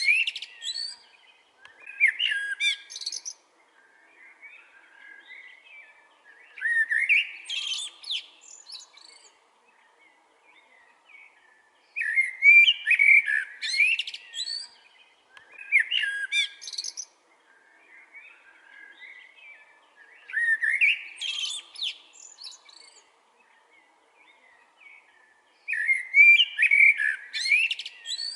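Eurasian blackbird singing: a run of about seven warbling song phrases, each a second or three long, sliding up into high twittering, with pauses of a few seconds between them.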